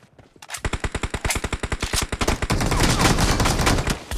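Video-game automatic gunfire: rapid shots, about ten a second, starting about half a second in. The fire grows louder and denser in the second half, with shots overlapping.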